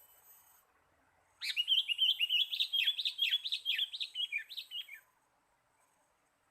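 Sooty-headed bulbul (kutilang) singing: one quick, bubbly run of chirping notes that starts about a second and a half in and lasts about three and a half seconds.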